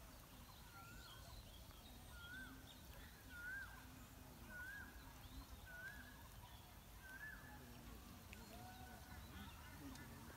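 A bird calling faintly, a short whistled note that rises and dips, repeated about once a second.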